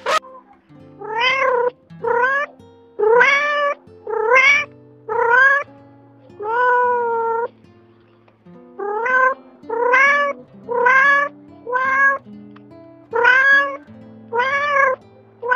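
A cat meowing about a dozen times, roughly once a second, each call rising and then falling in pitch, with a short pause around the middle. Background music plays underneath.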